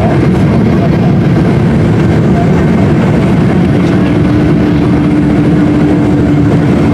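Boeing 777-200 cabin noise: the engines and airflow making a loud, steady noise, mostly low in pitch. A steady hum joins in about four seconds in.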